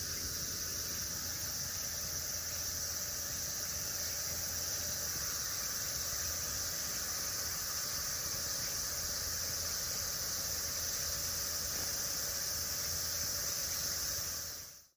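Steady, high-pitched droning of insects such as cicadas, even throughout and fading out near the end.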